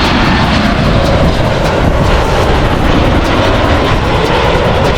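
Airplane on final approach to land passing low overhead, its engines making a loud, steady roar.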